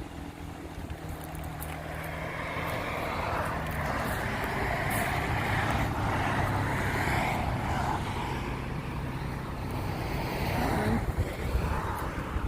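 A road vehicle passing by: its tyre and engine noise swells to a peak about halfway through, eases off, then rises again near the end.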